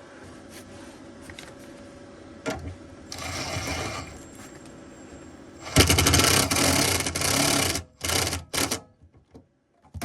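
MIG welder arc crackling while welding a sheet-metal patch into a floor pan. A loud burst of about two seconds comes about six seconds in, followed by two short bursts, with a fainter burst a few seconds earlier.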